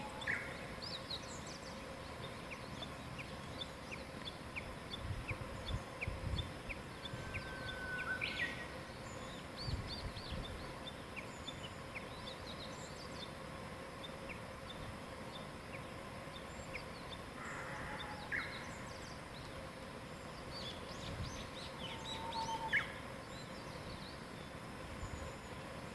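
Several wild birds singing and calling at once in a morning chorus: many short, high chirps and trills with the odd clear whistle. Under them is a faint steady hum.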